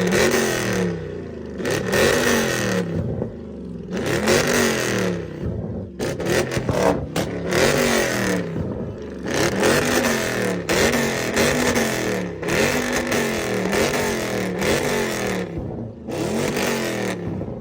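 A car engine revved over and over, each rev rising in pitch and falling back, about a dozen times in a row.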